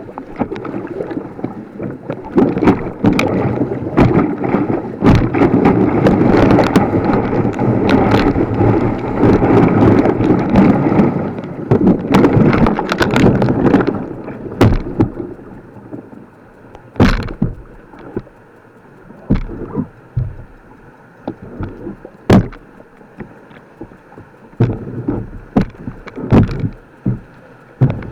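Kayak running white water: a loud rush of water with sharp splashes and knocks. It eases off a little after about fourteen seconds, leaving scattered separate knocks over a quieter rush.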